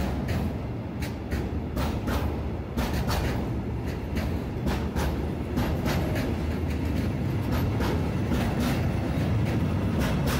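A train running along the tracks: a steady low rumble with many sharp, irregular clicks.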